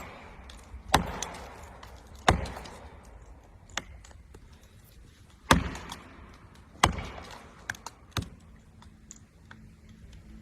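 Sharp, loud blows struck into the wood of a tree being felled, five main strikes spaced a second or more apart, each ringing out briefly, with a few lighter knocks between.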